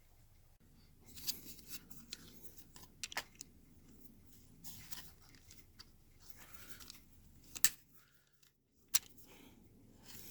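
Irregular clicks, knocks and scrapes of tools and metal brake parts being handled, with two sharper clicks near the end.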